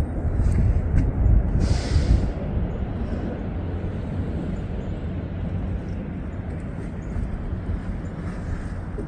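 Wind in a snowstorm buffeting the microphone: a low, rumbling rush, gustier in the first couple of seconds and then steady, with a short hiss about two seconds in.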